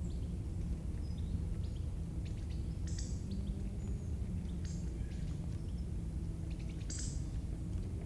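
Several short, high bird chirps and call notes, the clearest about three and seven seconds in, over a steady low rumble of background noise.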